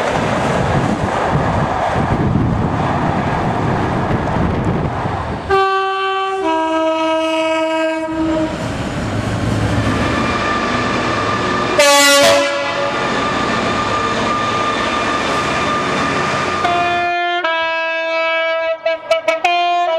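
A Class 47 diesel locomotive hauling coaches passes close by with a heavy rumble and wheel clatter. After about five seconds it gives way to two-tone train horn blasts, each sounding high then low. A short blast comes midway and a quick string of blasts comes near the end.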